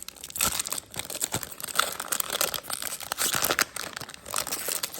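Baseball trading cards and their foil pack wrappers being handled: irregular crinkling and rustling with many small sharp clicks.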